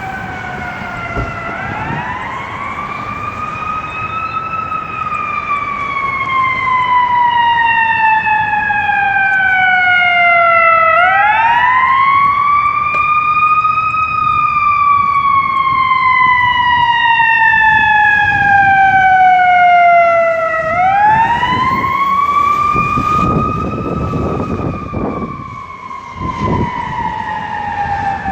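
Fire engine siren wailing: it winds up quickly and then falls slowly, three times over. A low rumble swells near the end.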